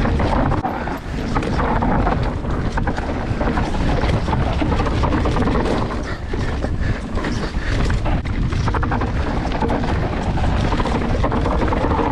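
Mountain bike descending a dry, rocky trail at speed: steady wind noise on the camera microphone over a constant clatter of tyres and frame over loose rock.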